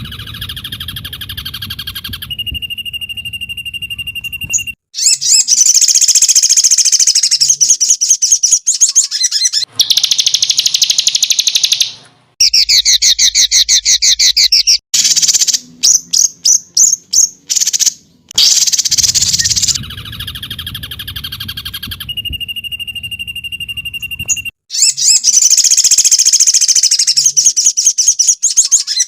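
Songbird training recording (masteran) of loud, rapid bird song: fast high trills and chattering phrases alternating with clear steady whistled notes, in a sequence that repeats as a loop. A low hum sits under some of the phrases.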